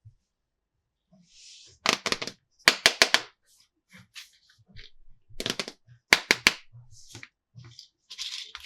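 Hard plastic toy pieces being handled, clicking and clattering against each other in quick groups of sharp knocks, with a few brief rustles.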